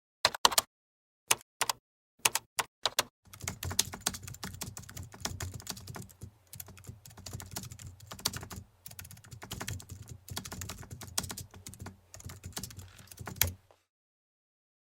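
Keyboard typing: a few separate keystrokes, then fast continuous typing from about three seconds in, stopping about a second and a half before the end.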